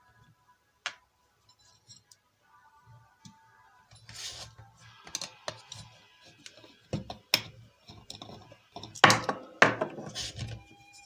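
Irregular clinks, knocks and scrapes of small metal tools and parts being handled, sparse at first and loudest and busiest in the last few seconds.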